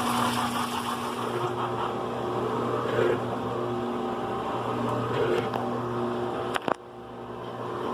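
GE Profile top-load washer with agitator, running its single-speed motor through a wash: a steady motor hum whose pitch shifts back and forth, with a swish every couple of seconds as the agitator turns. Two sharp clicks come about six and a half seconds in, followed by a brief drop in the hum.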